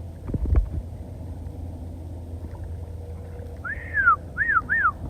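A couple of low thumps, then three loud whistled notes, each rising and falling in pitch, the first longer than the two quick ones after it.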